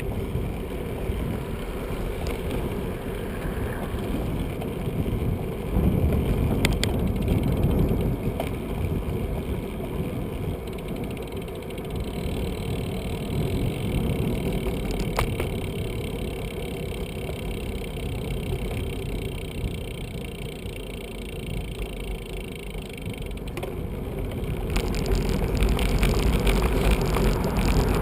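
Riding noise from a moving bicycle: a steady low rumble of tyres on the road and air moving past the microphone, with a few sharp clicks. The rumble grows louder over the last few seconds.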